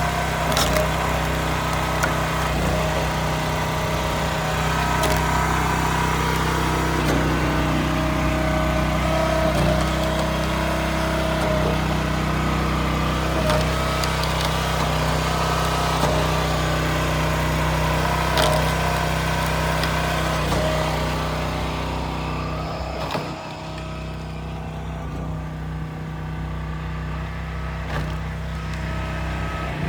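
Small gasoline engine of a Wolfe Ridge 22 RS log splitter running steadily, with a few sharp cracks of wood being split.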